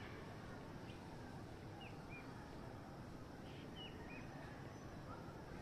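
Faint natural outdoor ambience: a steady low background noise with a few short bird chirps, two pairs in the middle and one more near the end.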